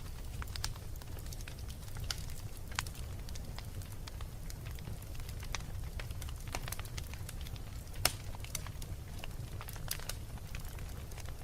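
Wood fire burning in a fireplace: a steady low rumble of flames with scattered sharp crackles and pops, the loudest pop about eight seconds in.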